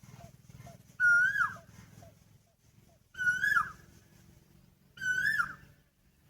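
Asian koel calling three times, about two seconds apart, each call a short note that rises and then drops sharply at the end.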